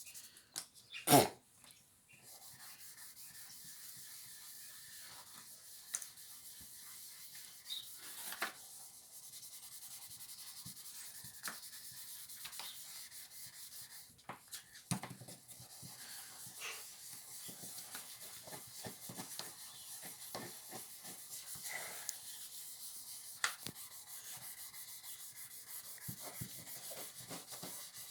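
Toothbrush with toothpaste scrubbing pen marks off a refrigerator's surface: steady, rapid rubbing strokes. A single sharp knock about a second in.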